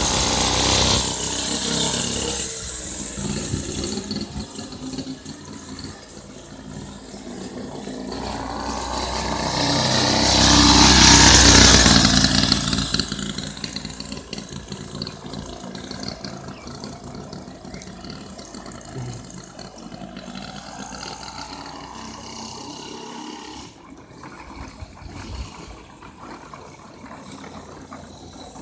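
Minibike's small engine running as the bike rides toward and past, growing louder to a peak about eleven seconds in, then fading as it moves away.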